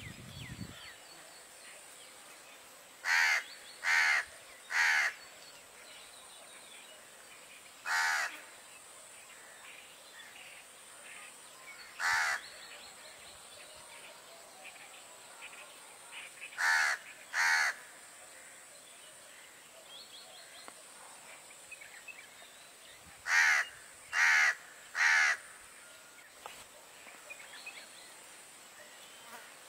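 A bird calling: about ten short calls, given singly or in quick runs of two or three, with pauses of several seconds between the groups.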